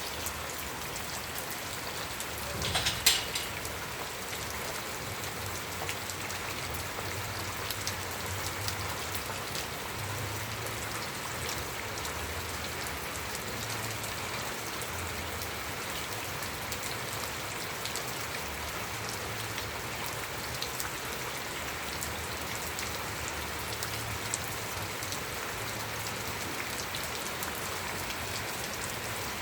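Steady rain falling on a surface, with many small drop ticks and a low rumble underneath. A brief burst of louder close drip or splash sounds about three seconds in.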